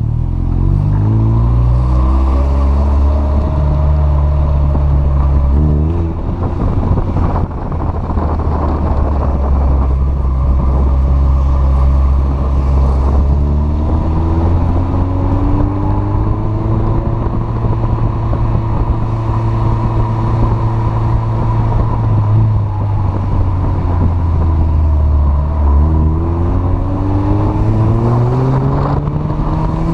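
Honda CRX's four-cylinder engine driven hard, its revs climbing steadily and then dropping sharply, about six seconds in and again near the end, before climbing once more.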